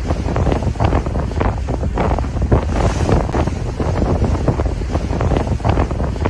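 Ocean waves crashing and washing ashore, with strong wind buffeting the microphone in a loud, constant rumble.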